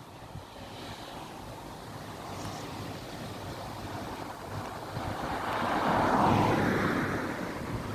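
A road vehicle passing, its rushing tyre and engine noise swelling to a peak about six seconds in and then easing off.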